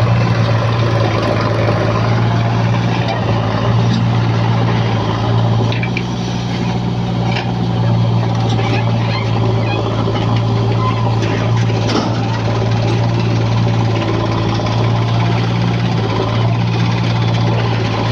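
Heavy diesel engine running steadily with a low, even hum, with a few short knocks about six and twelve seconds in.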